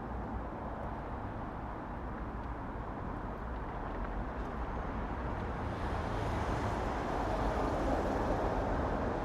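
Road traffic noise: a steady rumble of vehicles that grows louder about halfway through as a vehicle comes close.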